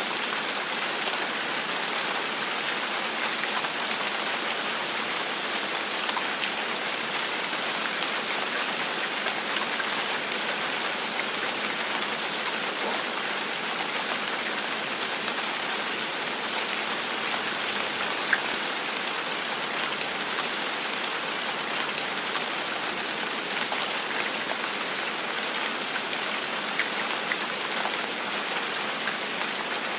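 Steady gentle rain falling on a surface, an even hiss of many drops with scattered individual drop ticks.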